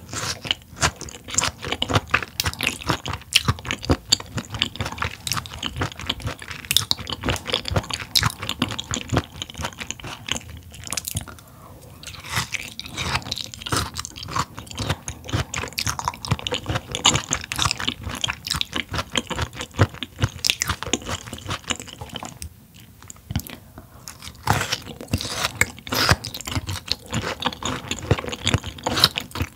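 Close-miked chewing of raw mullet stomach (숭어밤), a firm, springy cut: continuous wet crunching with many crisp clicks, briefly easing off twice.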